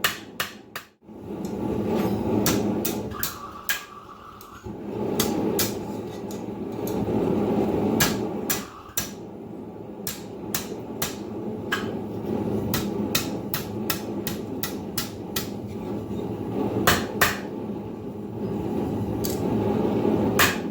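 Blacksmith's hand hammer striking hot steel stock on an anvil: dozens of sharp, ringing blows at an uneven pace with short pauses. A steady rushing noise runs underneath.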